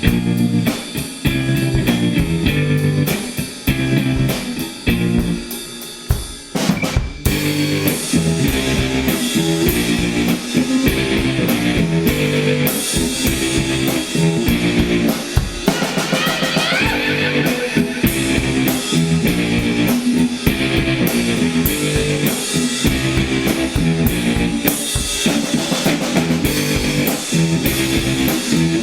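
Rock music: a band playing with drum kit, guitar and bass. The music thins briefly about six seconds in and comes back in full with a loud hit about a second later.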